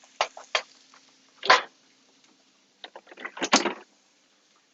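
Kitchen handling noises: several light clicks and knocks, with two short scraping rustles, one about a second and a half in and a louder one about three and a half seconds in. A faint steady hum runs under them.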